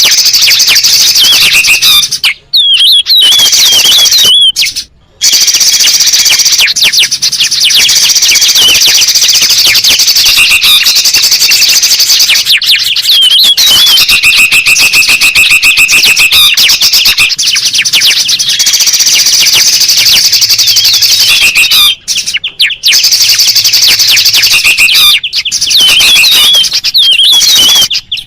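A dense, busy chorus of bulbuls and spiderhunters calling over each other: rapid chirps, twitters and whistled notes, with a steady trill in the middle. It is a bird-lure track meant to excite wild birds, and it breaks off abruptly for an instant several times.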